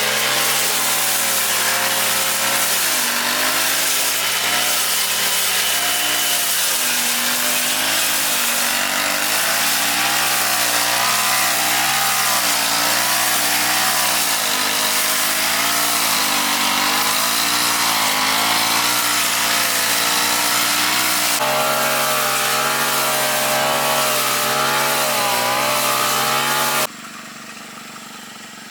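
Small petrol grass-cutter engine running under load while cutting grass, its pitch wavering up and down as the blade meets the grass. It cuts off suddenly near the end.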